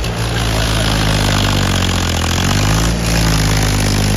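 Powertrac tractor's diesel engine running hard under load, its pitch sagging briefly about halfway through and then picking back up.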